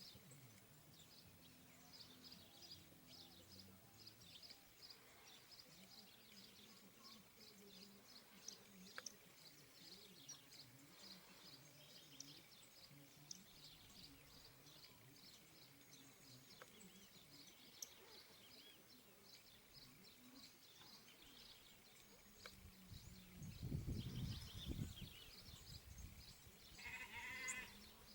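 Faint, repeated chirping of small birds, with low pitched animal calls in the first half, a low rumble a little before the end and a louder wavering call near the end.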